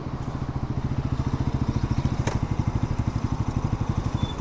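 Motorcycle engine idling with a steady, fast, even pulse; a single short click about two seconds in.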